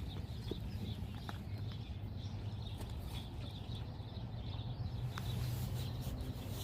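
Outdoor ambience of a steady low rumble with faint bird chirps and chatter, a couple of short chirps standing out.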